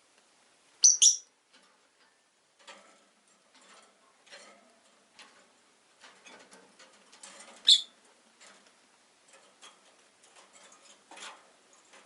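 Rosy-faced lovebirds in a cage: two sharp, high chirps about a second in and another loud chirp past the middle, with softer clicks and rustles in between.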